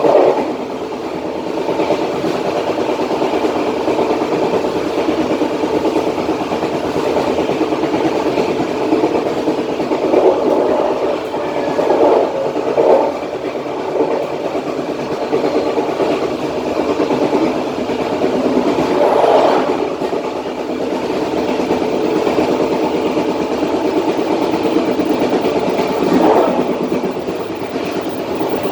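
Passenger train running on the line, a steady rumble of wheels on rails heard from the rear of the train, swelling louder briefly a few times.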